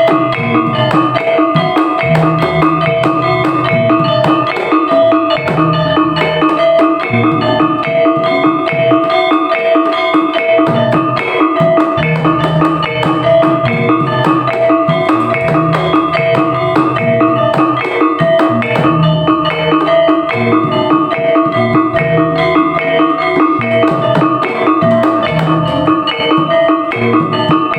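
Javanese Topeng Ireng dance music: drums beat a fast, repeating rhythm under ringing tuned metal percussion that keeps sounding the same few notes.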